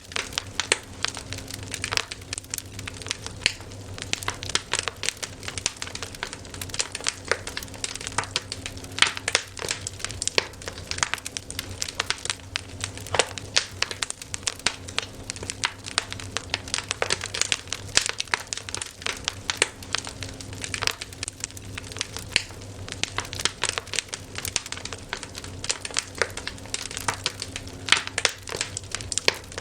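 Wood fire crackling: many irregular sharp pops and snaps over a low steady rumble.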